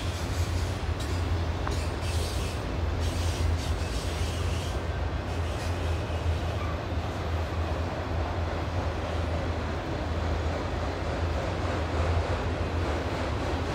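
Freight train of autorack cars rolling by on a stone viaduct: a steady low rumble of wheels on the rails, with a few faint wheel clicks in the first few seconds.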